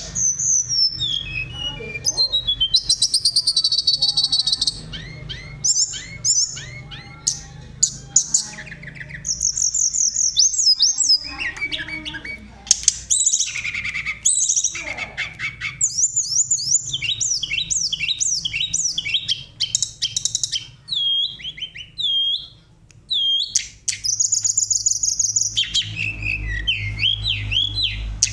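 A tledekan songbird singing continuously: a long, varied song of high flute-like whistles, rapid trills and sliding notes, with a steady low hum beneath.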